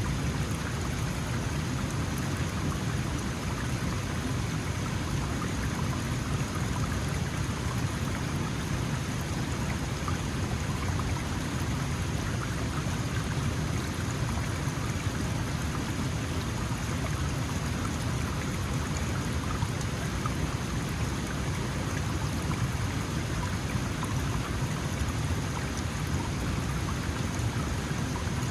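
Small mountain stream flowing over rocks: a steady, even rush and babble of water.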